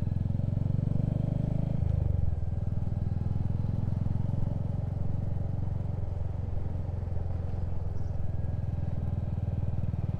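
Motorcycle engine running steadily at low road speed, its note changing about two seconds in.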